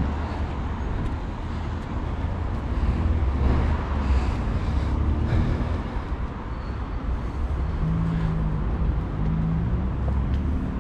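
Road traffic going by: a steady low rumble of passing vehicles, with an engine hum showing about eight seconds in.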